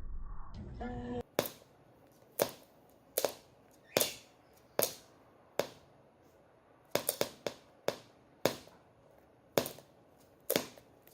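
A series of sharp taps or knocks, roughly one a second, some coming in quick pairs and threes.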